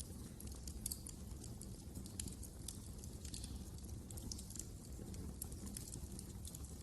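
Wood fire crackling in a fireplace: frequent small, irregular pops and snaps over a steady low rumble of burning.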